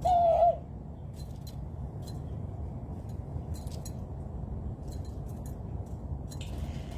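A single short animal call, about half a second long and dropping in pitch at its end, right at the start. After it, scattered light clicks and ticks over a steady low background hum.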